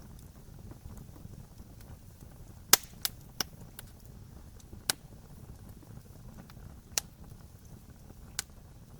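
Wood fire burning with a low, steady rumble and sharp crackling pops: three loud pops in quick succession about three seconds in, then single pops every second or two.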